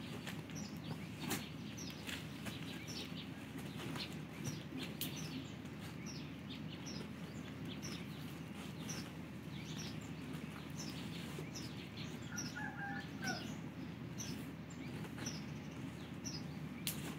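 Small birds chirping repeatedly, short high chirps about two a second, over steady low background noise with scattered faint clicks.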